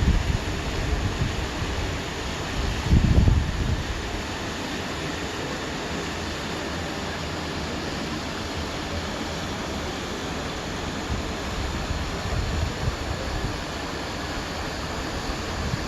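Strong wind blowing steadily, with a gust buffeting the microphone in a low rumble about three seconds in.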